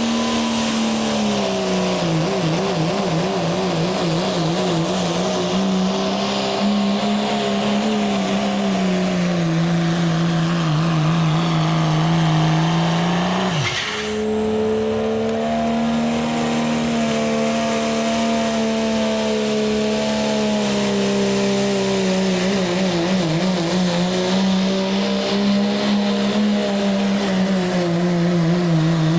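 Turbocharged diesel pickup engines held at full throttle while pulling a sled, a loud sustained run whose pitch sags and recovers under the load. The sound breaks off abruptly about halfway through, and a second run of the same kind follows.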